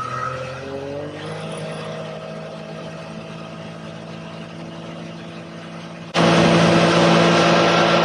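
Can-Am Maverick X3 Turbo R's turbocharged three-cylinder engine under way, rising in pitch as it accelerates and then running steadily. About six seconds in it becomes much louder with a sudden rushing noise, as the driver pushes it hard toward the high revs that trip its misfire limp mode.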